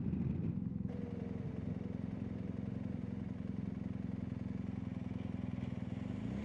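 BMW R1250GSA's boxer-twin engine running steadily at cruising speed under way.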